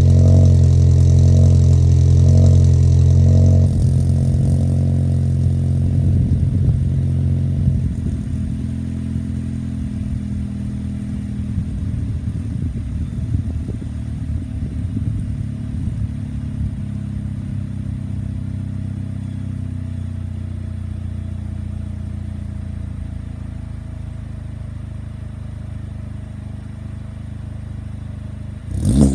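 The VW Passat R-Line's turbocharged engine running through an APR downpipe and custom exhaust. It runs loud for the first few seconds, then drops about four seconds in and settles to a steadier, quieter idle. A short, sharp clatter comes right at the end.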